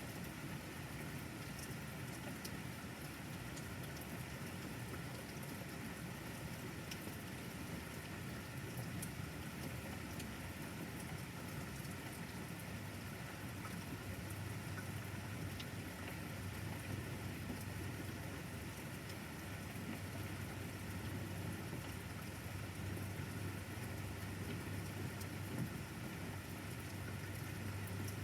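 Steady rain falling, with scattered fine drop ticks. A low hum grows stronger about halfway through.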